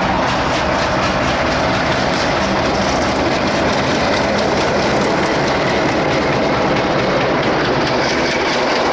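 A diesel locomotive and its train of LHB passenger coaches pass close by. The engine's low drone gives way to the coaches' wheels rolling over the rails, with sharp wheel clicks coming through more often near the end.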